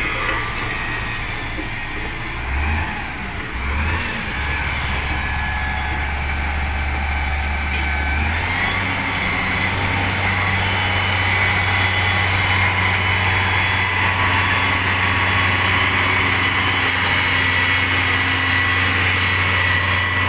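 Heavy diesel engine of construction equipment running steadily; about eight seconds in its note steps up and gets louder, as if put under more throttle or load, and it holds there.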